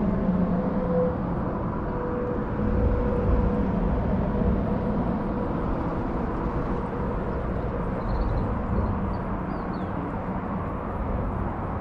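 Steady outdoor background rumble with faint steady hum tones, like distant traffic or an aircraft overhead. A few faint high chirps come in near the end.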